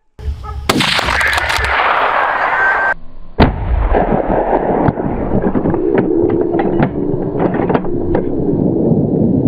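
Hunting gunshots: a sharp shot about a second in, and two more near the middle, with fainter cracks after them over continuous loud noise.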